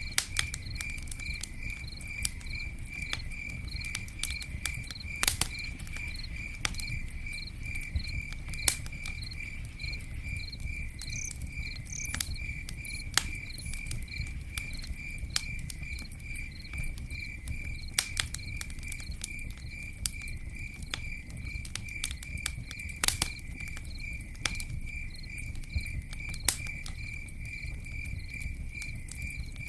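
Campfire crackling with scattered sharp pops and a low rumble, under an insect chirping steadily at about three to four pulses a second.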